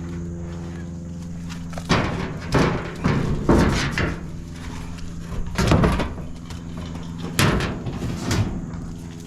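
Pieces of scrap metal knocking and clanking as they are set into a pickup truck bed, about six loud bangs with a brief ringing after each, over a steady low hum.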